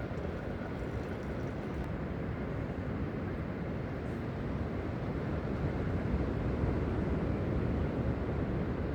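Steady low rush of sea surf and wind, swelling a little in the second half.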